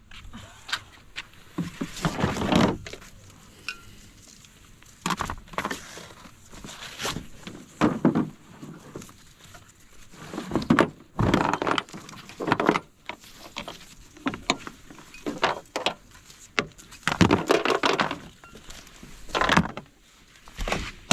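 Irregular handling noises of gear being moved around: knocks, thunks and rustling coming in uneven bursts every second or two.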